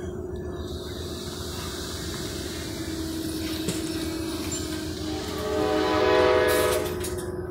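Amtrak Superliner passenger train standing with a steady hum, and a train horn sounds about five and a half seconds in for a second and a half.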